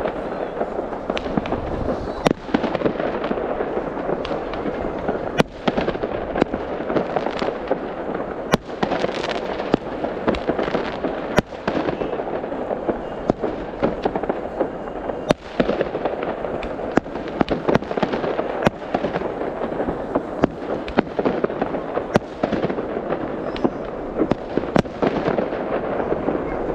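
Fireworks going off without a break: a dense, continuous crackling punctuated by frequent sharp bangs at irregular intervals, every second or so.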